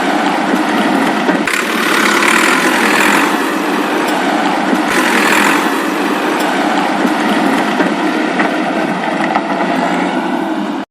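Small motor running steadily, swelling in strength every two to three seconds, then cutting off suddenly at the end.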